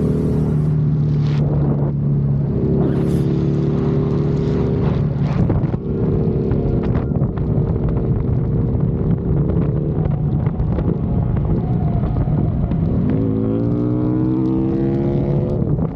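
Harley-Davidson motorcycle's V-twin engine running under way, its note shifting a few times, then rising steadily about three-quarters of the way through as it accelerates.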